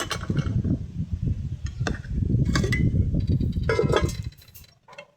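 Close-up eating sounds: dense, irregular chewing and crunching, with a few sharp clinks of utensils against a plate, dying away to quiet about four seconds in.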